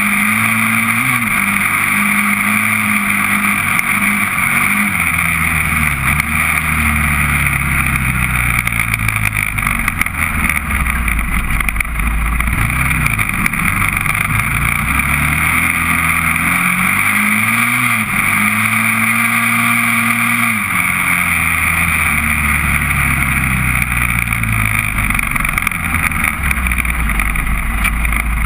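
Honda TRX400EX quad's single-cylinder four-stroke engine under way, revving up and dropping back again and again as it shifts through the gears, over a steady hiss.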